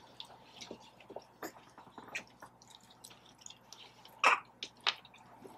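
Close-miked chewing and mouth sounds: a run of small wet clicks and smacks, with two louder ones about four and five seconds in.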